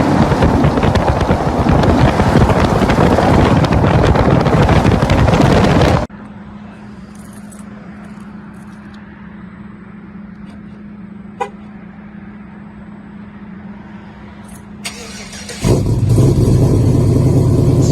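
Loud pickup truck engine and exhaust noise. It cuts off abruptly about six seconds in to a much quieter steady hum with a single click, then a loud truck engine running comes back near the end.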